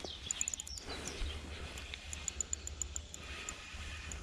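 Birds chirping and calling outdoors, with two quick runs of high-pitched ticks, over a steady low rumble.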